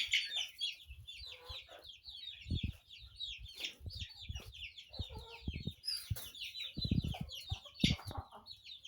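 A flock of chickens clucking and calling, with many short, quick, high chirps overlapping throughout and a few low thumps.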